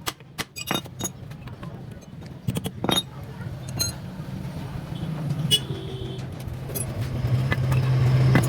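Metal tools and engine parts clinking and knocking several times, then a steady low drone that grows louder over the last couple of seconds.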